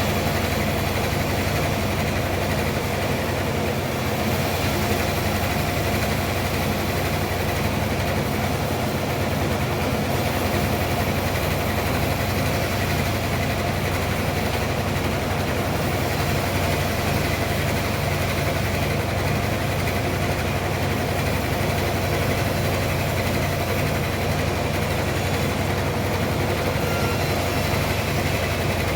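Sawmill machinery running steadily with an even, unchanging engine-like hum.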